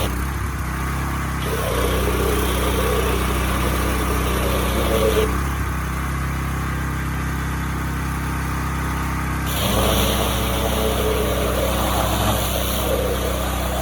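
Pressure washer engine running steadily while the high-pressure spray hisses on and off: the spray is off at first, comes on about a second and a half in, cuts off around five seconds in, and comes back on near ten seconds.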